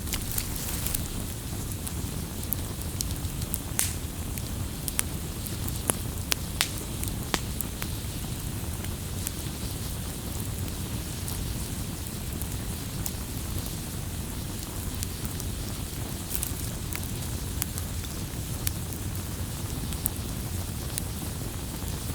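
Campfire crackling: a steady low rush of burning wood with scattered sharp pops and snaps.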